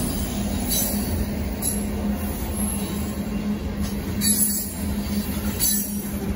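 Freight train's covered hopper cars rolling past at close range: a steady rumble of steel wheels on the rails with a steady droning tone, broken by a few sharp clanks.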